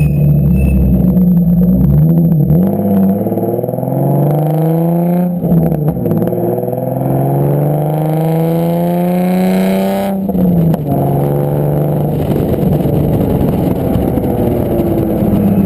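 Nissan 350Z's VQ35HR V6 running through decatted test pipes and a modified Borla exhaust. The engine note wavers, then climbs steadily in pitch for several seconds and breaks off sharply about two-thirds of the way in. It holds fairly steady after that and starts rising again near the end.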